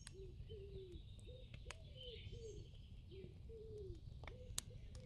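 Faint, evenly repeated short low calls that rise then fall, about two a second, with a few sharp clicks among them.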